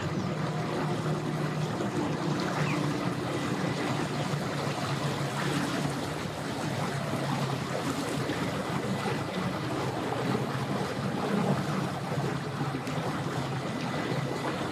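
An engine idling, a steady low hum, under a continuous wash of water and wind noise.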